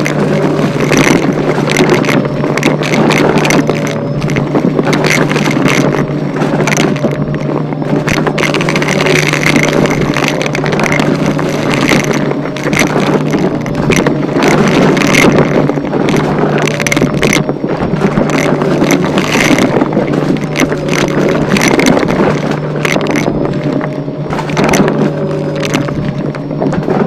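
Vacuum cleaner running continuously with a steady motor hum and whine, its sound surging irregularly as it is pushed quickly back and forth over the floor.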